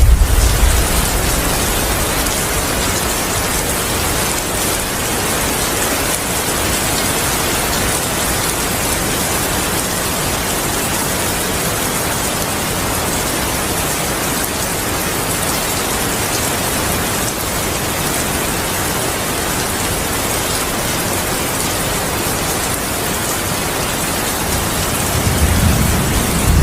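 Steady heavy rain, an even hiss throughout. A low thunder rumble dies away in the first second, and another begins to build near the end.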